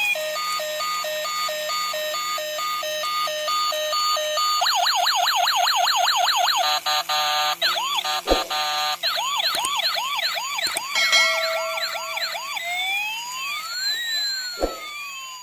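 Electronic siren sounds cycling through several patterns: a two-tone hi-lo beeping, fast rising-and-falling yelps, and slow wails that rise and fall. Two sharp clicks stand out, one in the middle and one near the end, and the sound starts fading near the end.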